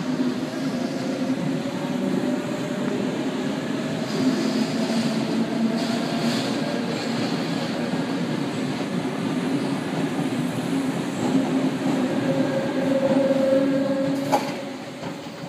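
Electric commuter train moving through the station: steady rail rumble with a motor whine, a sharp click about six seconds in and another near the end, then the sound fades as the train moves away.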